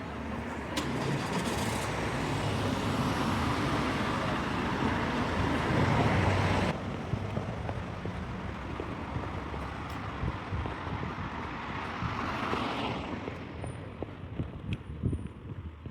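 Road traffic passing close by on a town street: motor vehicles go past one after another, loudest in the first half, and the last one fades away in the final few seconds.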